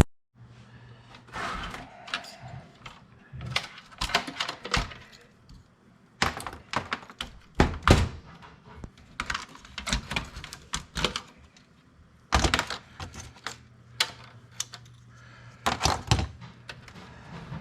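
Scattered, irregular knocks, clicks and rattles of hard computer parts being handled during a teardown, coming in short clusters over a faint low steady hum.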